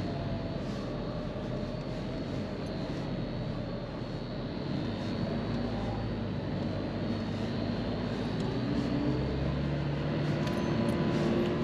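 Car engine running, heard from inside the cabin as the car moves slowly over sand dunes. The engine note rises a little in the second half.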